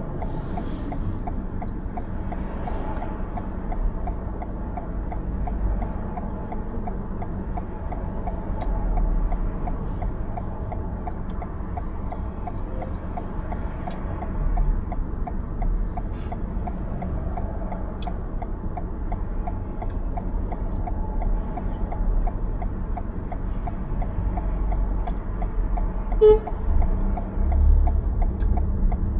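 Car driving, with steady road and engine rumble heard from inside the cabin. A fast, even faint ticking runs throughout, with a few scattered clicks and a short beep about 26 seconds in.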